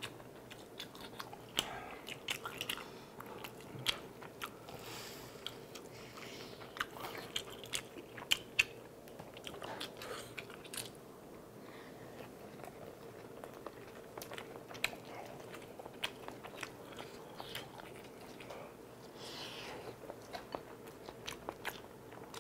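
Close-miked eating: biting and chewing a crumb-coated hot dog dipped in tteokbokki sauce, with irregular crunches and clicks.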